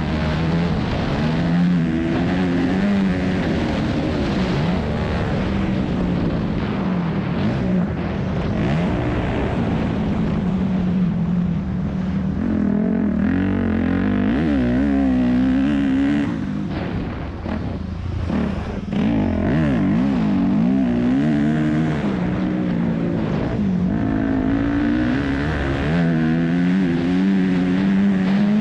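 2001 Yamaha YZ250F four-stroke single-cylinder motocross engine running hard, revs rising and falling over and over as the rider works the throttle and gears. A little past halfway it drops off throttle and goes quieter for a couple of seconds, then picks up again.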